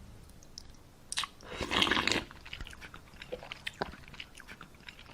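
Close-miked ASMR eating sounds: biting and crunching, with scattered wet mouth clicks and a louder crunch about one and a half to two seconds in.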